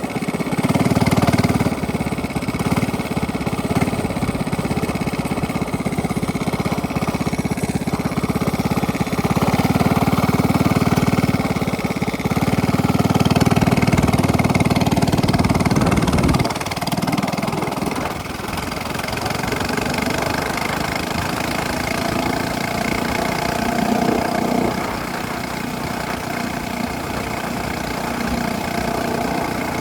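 Minibike engine with a straight-pipe exhaust running under throttle, its sound rising and falling. About halfway through it drops to a quieter, steadier run.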